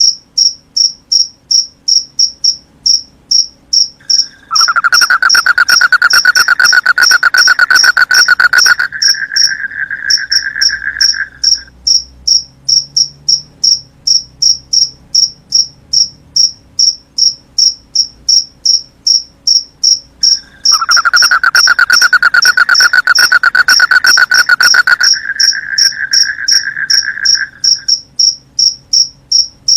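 Field crickets chirping steadily, about three high-pitched chirps a second. Twice a louder, lower buzzing trill joins them, each time for about seven seconds.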